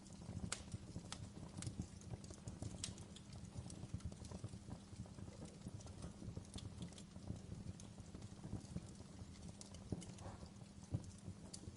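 Wood fire burning in a fireplace: logs crackling with irregular sharp pops and snaps over a steady low rumble of the flames.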